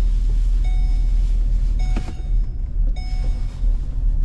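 Car driving with steady engine and road rumble inside the cabin, while a short in-car warning chime repeats about once a second. A single knock sounds about two seconds in.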